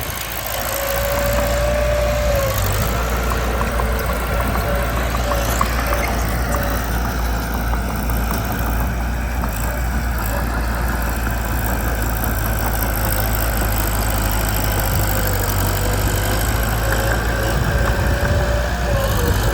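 Mitsubishi BD2 bulldozer's diesel engine running steadily, with a thin whine that comes and goes above the engine note.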